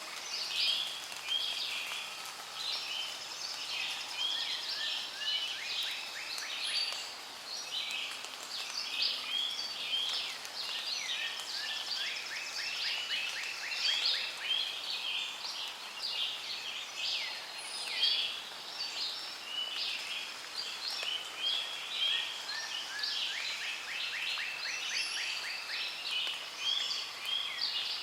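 Dense chorus of many birds calling at once, a constant overlapping mix of short high chirps and whistles, broken a few times by a rapid trill of quick repeated notes.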